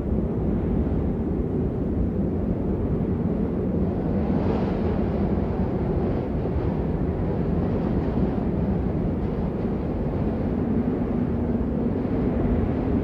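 Steady rain, a dense low rushing noise that grows a little brighter about four seconds in.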